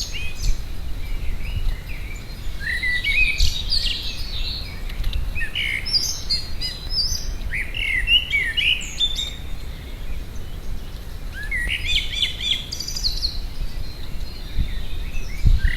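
Garden songbirds chirping and singing in short bursts of high, quick notes, over a low steady rumble.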